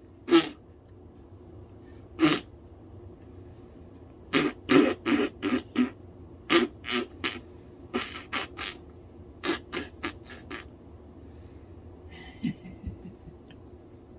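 A pet animal making fart-like noises: short, sharp sputters, singly at first, then in quick runs of three to six at about four a second, with pauses between.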